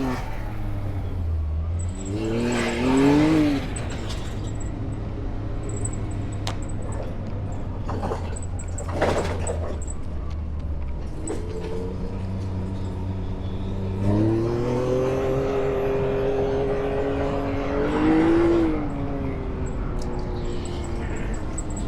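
Off-road vehicle's engine running at low speed while crawling over rocks. It revs up briefly about two seconds in and again for several seconds from about fourteen seconds in, with a short burst of noise about nine seconds in.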